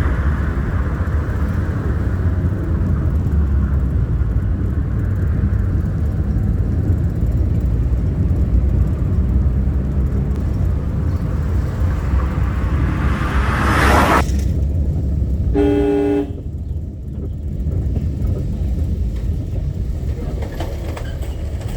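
Steady low rumble of a car driving on the road. About two-thirds of the way through, a vehicle passes close by with a brief rush of noise, followed a second later by one short honk of a vehicle horn.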